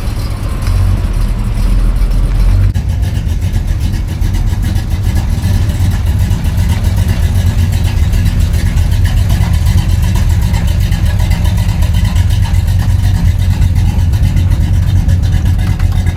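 A truck's engine running loud and steady, its exhaust sound sitting low in pitch.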